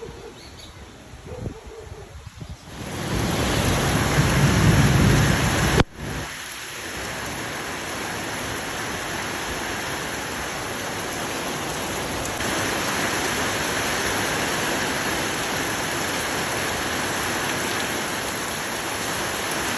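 Heavy rain pouring down steadily, setting in suddenly about three seconds in. A deep rumble runs under it for a couple of seconds, then the sound briefly cuts out.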